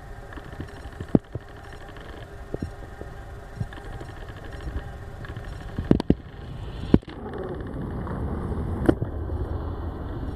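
Boeing 737-500's CFM56-3 jet engines on approach, a steady noise that grows louder in the second half as the aircraft nears. Several sharp knocks stand out above it.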